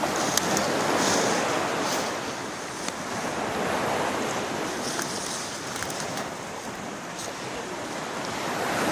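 Waterfall water rushing in a steady roar that swells and eases slightly every few seconds.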